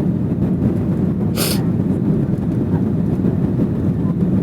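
Steady low rumble of an airliner heard from inside the passenger cabin, with one short hiss about a second and a half in.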